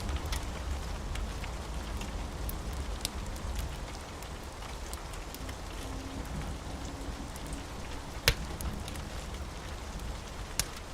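Steady rain with a low rumble underneath, and a wood fire crackling in scattered sharp pops, one much louder pop about eight seconds in.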